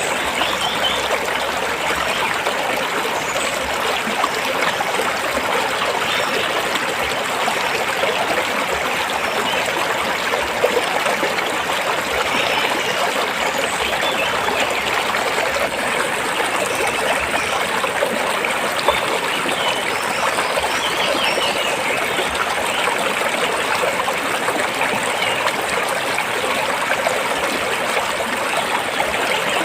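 Stream water flowing steadily over and between rocks.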